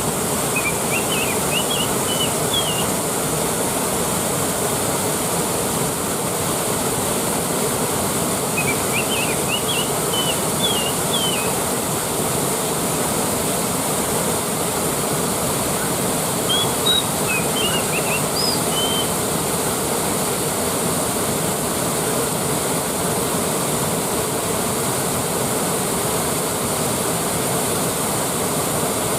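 Waterfall rushing in a steady, even roar of falling water. Short high chirps break in three times over it.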